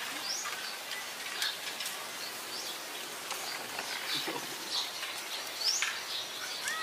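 A bird chirping over and over: short, high, rising chirps roughly once a second, over a steady background hiss.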